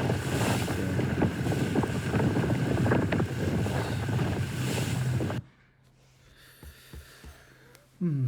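Wind blasting the microphone and water rushing past a boat under way in waves, with a steady low hum, all cutting off abruptly about five seconds in to near quiet. A short falling sound comes near the end.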